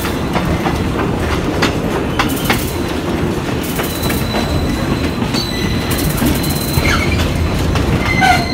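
Passenger train running along the track, heard from an open carriage window: a steady rumble of the wheels with a few sharp clicks over the rails, and a thin wheel squeal setting in about halfway and strongest near the end.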